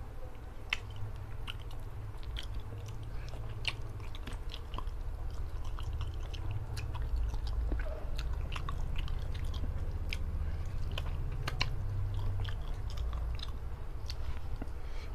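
Close-miked mouth sounds of a man eating fish head in curry sauce with his fingers: chewing, with scattered wet clicks and smacks, over a steady low hum.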